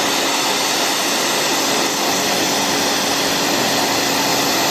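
Pressure washer spraying water in a steady hiss, with a steady hum underneath.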